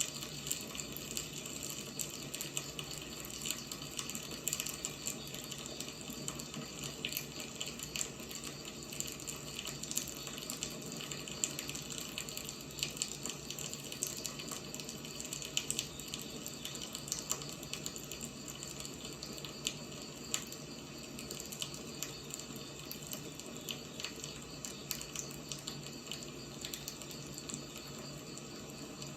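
Burning firewood crackling: a steady hiss with frequent, irregular sharp pops and snaps.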